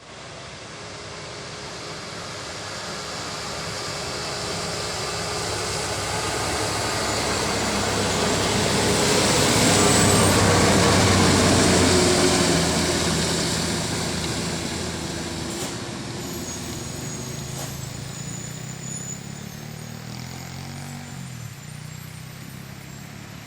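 A heavy truck driving past on a rain-soaked road: engine and wet tyre hiss build up, are loudest about ten seconds in, then fade away. Another engine runs more quietly near the end.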